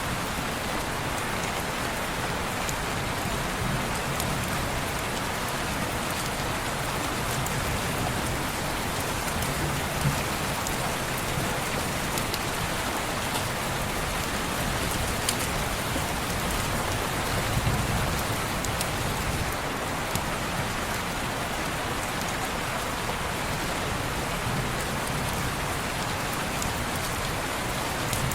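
Steady rain falling on window glass, an even hiss with a few sharp ticks, the loudest about ten seconds in.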